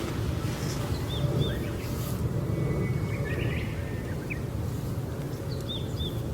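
Small birds calling outdoors: short, high chirps in quick pairs about a second in and again near the end, with a few other chirps in between. Under them runs a steady low rumble of outdoor background noise.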